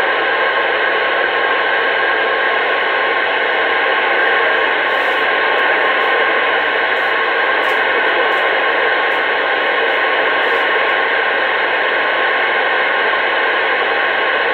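Steady hiss of static from a CB radio's speaker on an open channel with no one talking.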